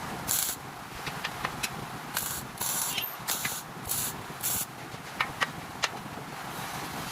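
Short hissing bursts, about six of them, each a fraction of a second long, with sharp clicks and ticks between them over a steady low background.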